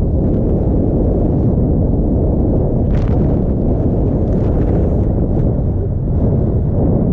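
Strong wind buffeting the camera microphone: a loud, continuous low rumble.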